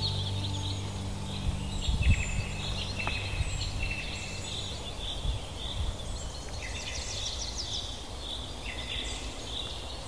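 Several wild birds calling and singing: a mix of short chirps, quick trills and whistled notes, overlapping, with low steady tones underneath fading out in the first half.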